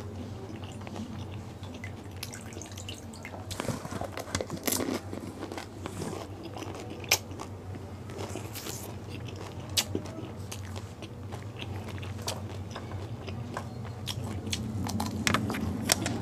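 Chewing and crunching pani puri: crisp fried puri shells breaking between the teeth, with a few sharp crunches standing out about seven seconds in, around ten seconds and near the end.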